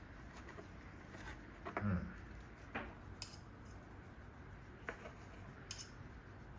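A few faint, separate clinks and scrapes of kitchen utensils and dishes, with a soft low thump about two seconds in.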